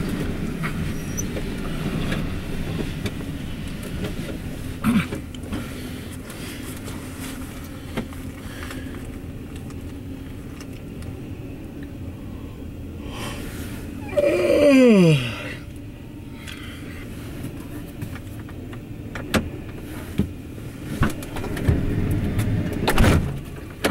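CSX double-stack intermodal freight train rolling past: a steady rumble of wheels on rail with scattered clanks, growing quieter after the first few seconds as the last cars go by. About two-thirds of the way through, a loud short whine falls steeply in pitch.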